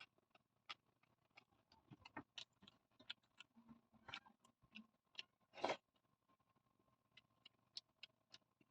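A person eating watered rice close to the microphone: quiet, irregular chewing and wet mouth clicks, with a longer wet smack about five and a half seconds in.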